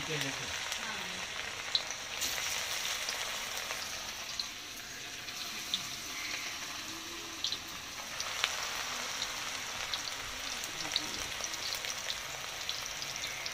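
Raw minced-meat kebab frying in hot oil in a kadai. The oil makes a steady sizzle with scattered sharp pops.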